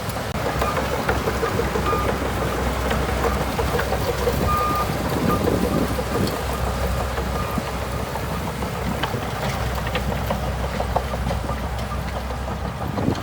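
Shantui DH17C2 crawler bulldozer working: its diesel engine runs with a steady low hum under a dense clatter. A few short, faint high beeps sound in the first half.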